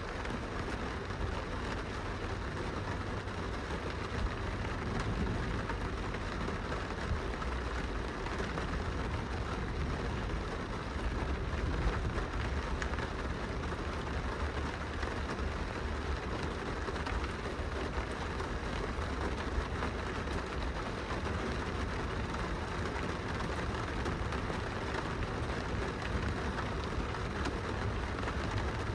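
Steady rain falling on window glass, with now and then a louder drop, over a constant low rumble.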